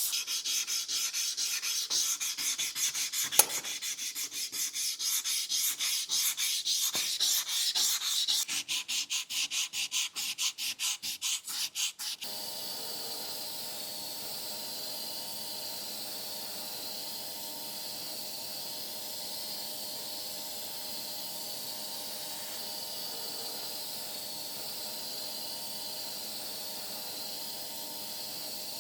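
Hand sanding or filing, quick even back-and-forth strokes at about four a second. About twelve seconds in it cuts off abruptly to a steady hiss with a faint hum.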